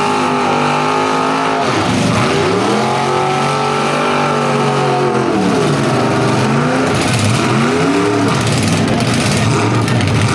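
Full-size demolition derby car engines revving hard and dropping back, over and over, the pitch climbing and falling every couple of seconds.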